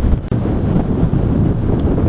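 Wind buffeting the microphone: a loud, irregular low rumble with no steady tone, dipping briefly just after the start.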